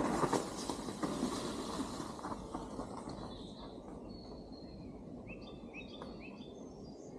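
Bike tyres sliding and rolling over loose, low-grip dirt down a steep drop, a rushing noise that fades over the first three seconds. Short bird chirps follow near the end.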